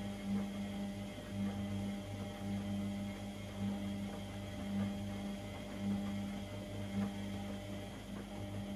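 Privileg Sensation 952 S top-loading washing machine running with a steady electrical hum that wavers and dips briefly now and then.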